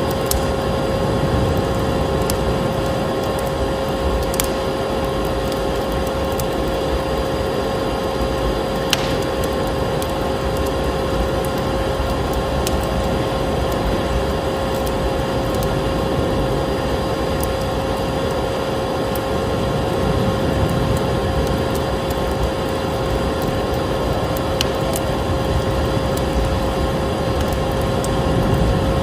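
Vacuum cleaner motor running steadily with a constant hum, mixed with a wood fire crackling and giving a few sharp pops.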